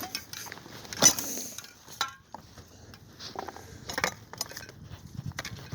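Metal tools clinking and knocking as they are handled, with a sharp knock about a second in and a short metallic ring a second later.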